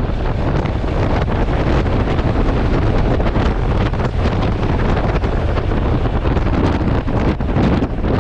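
Wind buffeting the built-in microphone of a GoPro Hero 8 Black on a moving motorcycle: a loud, steady rushing rumble, heaviest in the lows, that covers the engine.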